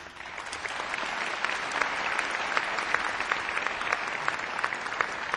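Audience applauding, dense clapping that builds over the first second and then holds steady.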